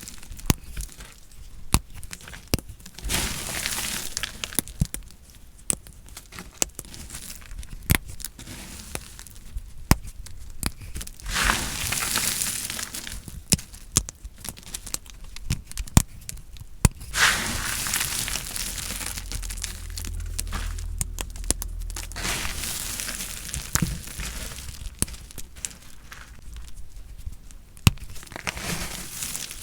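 Knife cutting through bar soap: crisp crackling and crunching in several strokes with short pauses, dotted with sharp clicks. A low hum runs for a few seconds past the middle.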